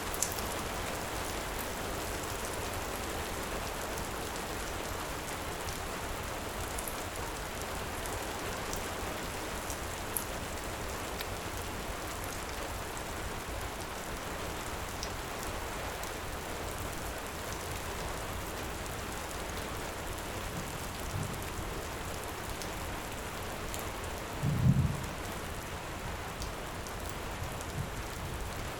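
Heavy rain falling steadily, with a few sharp crackles from a wood fire. Near the end a short low rumble of thunder stands out as the loudest sound.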